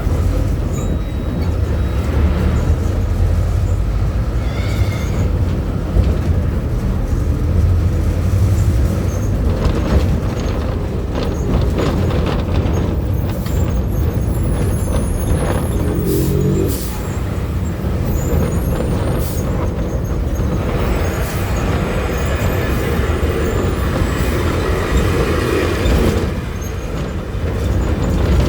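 Front-mounted diesel engine of a VW 17-230 OD city bus running steadily under way, heard from inside the bus, with a few short clicks and rattles about halfway through.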